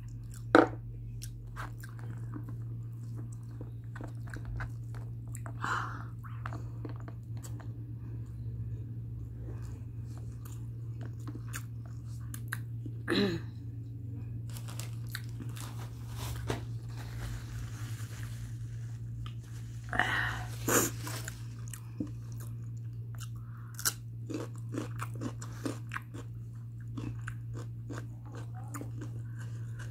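Close-up chewing and mouth noises of a person eating mutton biryani by hand: wet chewing with many small clicks and lip smacks, and a few louder mouth sounds, one a little before halfway and another about two-thirds through. A steady low hum runs underneath.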